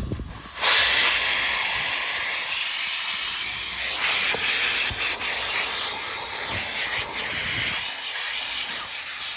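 Car wash vacuum sucking air through its hose tool: a loud, steady rushing hiss that jumps up about half a second in, with a few faint knocks as the nozzle works over the car's interior.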